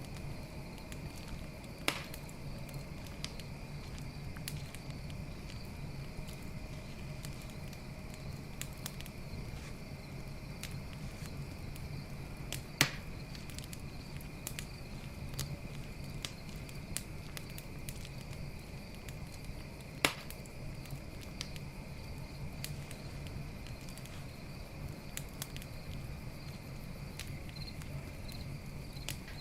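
Campfire burning with frequent small crackles and three sharp wood pops, about two, thirteen and twenty seconds in, over a steady chirring of night crickets.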